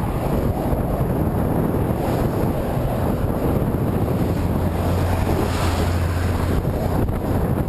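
Heavy wind buffeting the microphone while moving into a headwind, a dense, steady rushing noise. A low hum rises out of it for about two seconds in the middle.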